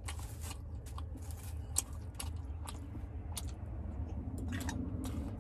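A person chewing food, with irregular clicks and crunches over a steady low hum.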